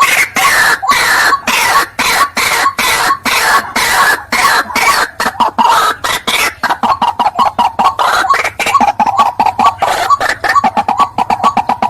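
White-breasted waterhen (ruak-ruak) calling: a loud, harsh croaking repeated rapidly, about four notes a second, without a break.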